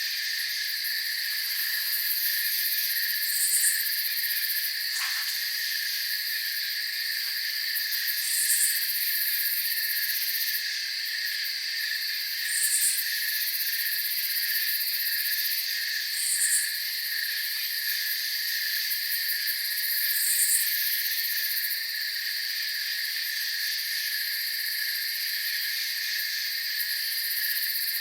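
Night chorus of crickets chirping steadily in fast even pulses, with a short, higher call repeating about every four seconds.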